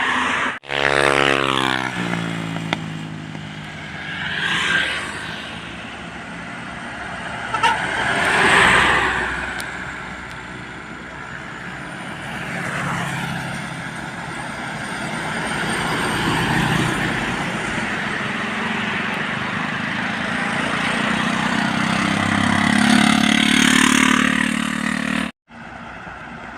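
Trucks and other traffic passing close by on a highway, one after another, each swelling and fading with engine and tyre noise. Just after the start an engine's pitch falls as a vehicle goes by. The sound drops out briefly twice, near the start and near the end.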